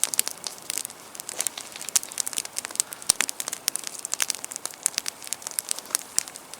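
Small campfire crackling, with many sharp, irregular snaps as the kindling catches.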